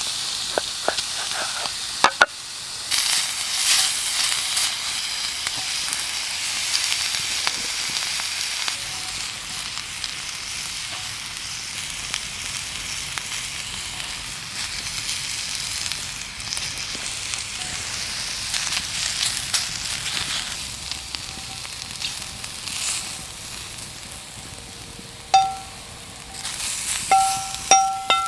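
Food sizzling as it fries in a pan over a campfire. There are a few sharp clicks about two seconds in, and short ringing clinks near the end.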